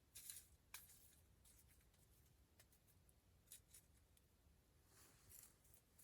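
Wood campfire crackling faintly, with scattered sharp pops and short soft hisses.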